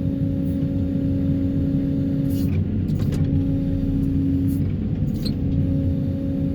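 Excavator engine and hydraulics running steadily, a loud low rumble with a constant hum tone on top that drops out briefly a couple of times.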